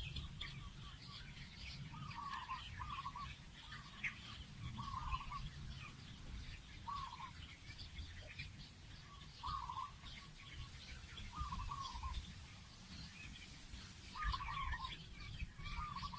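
Birds calling: a short call repeated every second or two, over many higher chirps, with a low rumble underneath.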